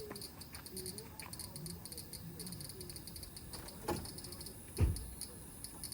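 Summer insects chirping in rapid, evenly repeating high-pitched pulses. Two dull thumps land about four and five seconds in, the second louder.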